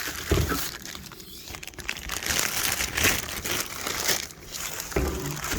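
Packaging on a pressure washer's handle crinkling and crumpling as it is pulled off, with a couple of dull knocks as the parts are handled.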